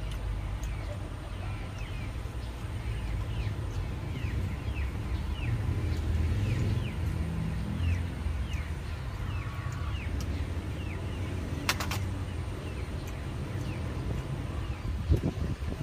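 A bird chirping over and over, short falling chirps about twice a second, over a steady low rumble, with a brief clatter about twelve seconds in.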